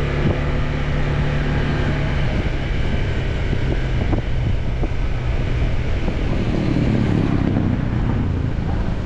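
Motorbike engine running while riding, with wind and road noise over it; a low rumble swells and fades around seven seconds in.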